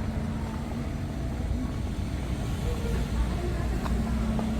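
Steady low rumble of road traffic, vehicle engines running along a town street.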